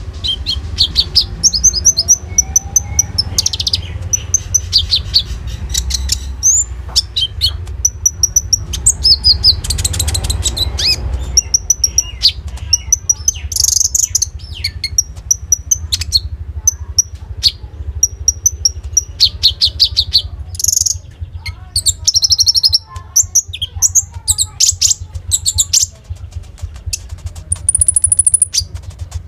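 Konin songbird singing in full voice: fast high-pitched chirps, trills and sharp rapid repeated notes, over a steady low hum.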